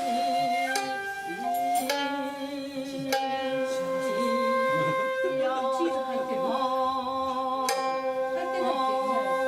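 Traditional Japanese chamber music. A shakuhachi holds long, slightly wavering notes over occasional plucked string notes, which come a few seconds apart.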